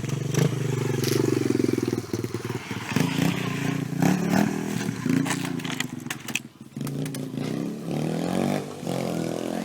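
Small 110 cc dirt bike engine running and revving up and down, dropping away briefly about two-thirds of the way through before picking up again.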